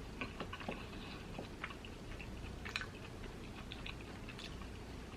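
Faint chewing of a Korean mozzarella corn dog, with small scattered mouth clicks and a couple of slightly louder clicks in the middle.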